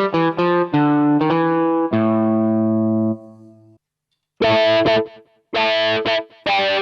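Casio AiX keyboard playing a guitar tone: a quick run of notes, then a held chord that cuts off about three seconds in, and after a short silence a series of short, bright chord stabs.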